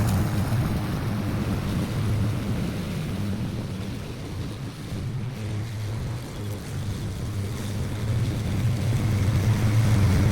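Lawn mower engine running steadily under load while cutting grass, fading a little midway and growing louder again toward the end.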